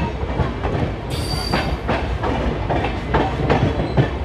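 Indian Railways express train running on the track, its wheels clattering over the rails in irregular clacks. A little over a second in comes a brief high metallic squeal.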